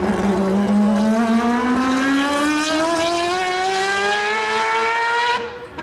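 Hyundai Elantra N's turbocharged four-cylinder engine accelerating hard, its pitch climbing steadily for about five seconds, then cut off near the end as it shifts up and resumes at lower revs.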